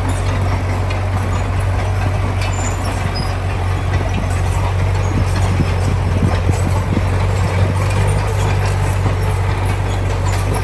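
Heavy diesel engine of earthmoving machinery running steadily under load, a low, even drone with rattling and clanking over it.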